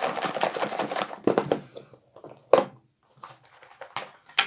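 Salad being shaken in a closed plastic lunchbox: rapid rattling and rustling of the lettuce, croutons and chicken inside for about the first second, then a few separate knocks and clicks of the plastic box, the loudest about two and a half seconds in.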